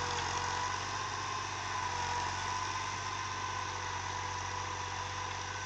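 Fiat 480 tractor's diesel engine idling steadily.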